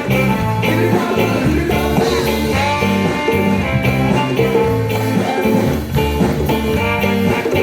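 Live band playing an instrumental passage of an upbeat song, with bass and a steady beat.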